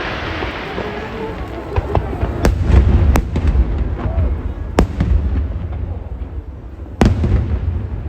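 Aerial fireworks going off: a continuous low rumble of shell bursts with sharp cracks, the loudest about 2.5, 3, 5 and 7 seconds in.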